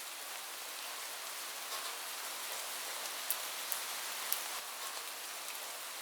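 Heavy rain falling steadily on a roof, with a few louder individual drops ticking sharply about halfway through.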